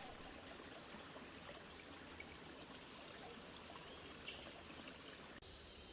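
Faint, steady rush of a rainforest stream flowing. About five seconds in it cuts abruptly to a steady, high-pitched drone of insects.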